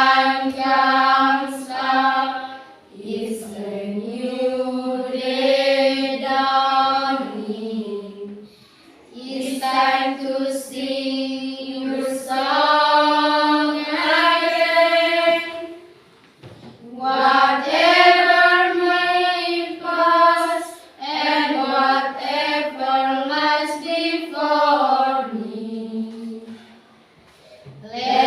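A group of students' voices singing a song together a cappella, in long held phrases with short breaks for breath between them.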